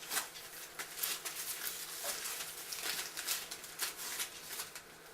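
Labrador puppies moving about, making irregular soft clicks and rustles, several a second.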